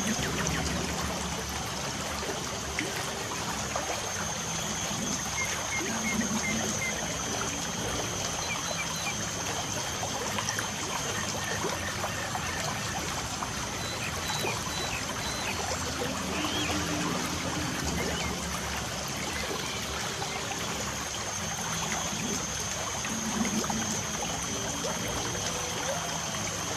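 Light rain falling as a steady, even hiss of water, with a few faint bird chirps scattered through it.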